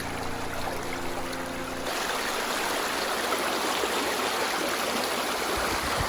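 Shallow woodland stream flowing and trickling in an even rushing wash of water. Sustained background music notes sound over the water and stop about two seconds in.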